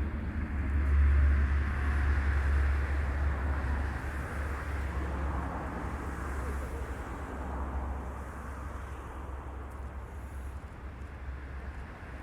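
Rolls-Royce Dart turboprops of a YS-11 aircraft: a low rumble with a fainter whine above it, fading steadily as the aircraft moves away.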